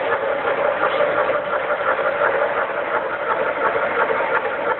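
Model trains running on a layout: a steady mechanical hum.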